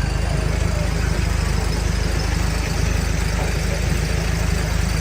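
A large fire truck engine idling steadily, with a low, even pulse.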